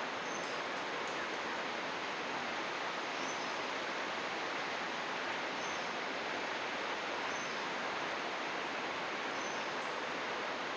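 Steady rush of flowing stream water, with a few brief, high bird chirps scattered through it.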